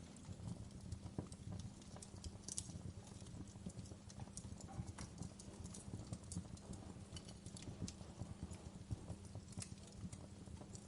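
Wood fire burning in a fireplace, crackling steadily, with irregular sharp pops and snaps over a low, continuous bed of burning.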